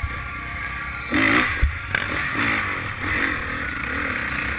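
Motocross bike's engine heard from on board, revving up and down in short blips, with a loud surge just after a second in and a sharp knock soon after.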